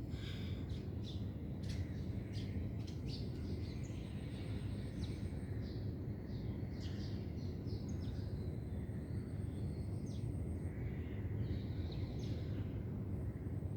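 Small birds chirping and calling in short scattered notes, over a steady low background rumble.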